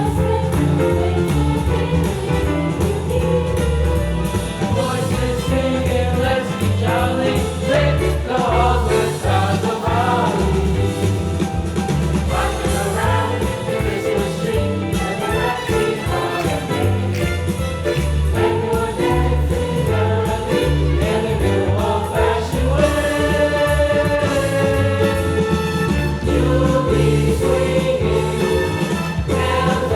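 Music: a group of voices singing a song together over a steady, rhythmic bass accompaniment.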